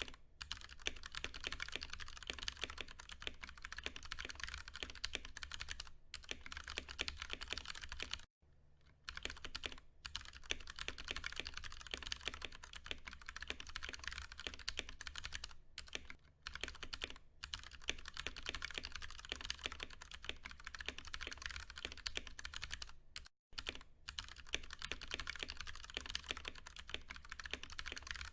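Steady, fast typing on a Ducky One 2 Mini mechanical keyboard with Cherry MX Brown tactile switches: a dense patter of keystrokes, broken by a few brief pauses.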